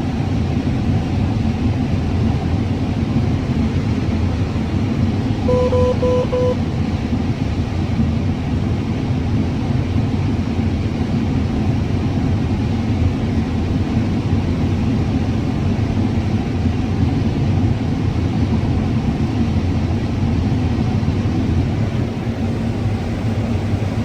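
Combine harvester running steadily while picking corn, a constant low drone. About six seconds in, a short electronic beep sounds three times.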